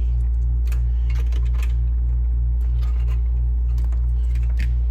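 Steady low electrical hum with a buzz that pulses about three times a second, under scattered light clicks and taps of a cable connector being handled and plugged in.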